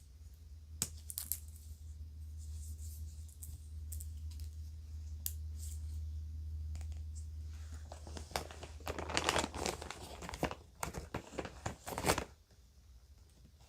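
A few light clicks and taps over a steady low hum, then about four seconds of a crinkly bag being crumpled and rustled by hand, which stops abruptly.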